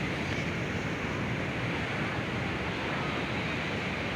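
Ocean surf: a steady wash of waves breaking on the beach.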